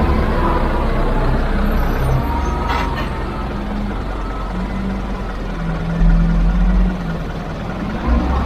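Heavy diesel machinery engine running with a steady low rumble whose pitch shifts up and down, with a louder low surge about six seconds in that lasts about a second. A brief sharp click comes about three seconds in.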